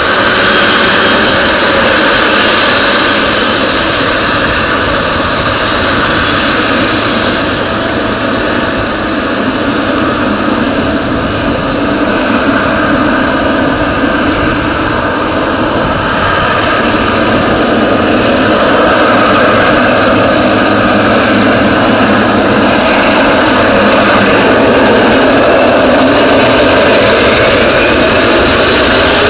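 Boeing 777-300ER's twin GE90-115B turbofans running at takeoff thrust: a loud, steady jet noise with several steady whining tones over it.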